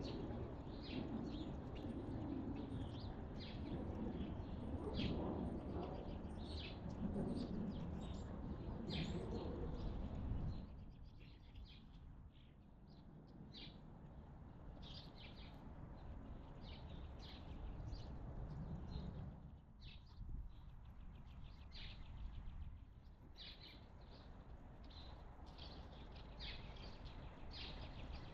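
Wild birds chirping and calling in many short, quick notes, over a low background rumble that drops off about ten seconds in.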